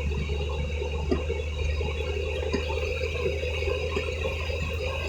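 Steady hum and hiss inside a car on wet roads after a downpour, with a couple of faint clicks.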